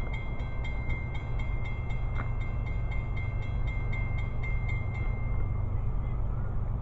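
Approaching train: a steady low rumble, with a rapid, evenly repeated ringing, about four strikes a second, that stops about five seconds in.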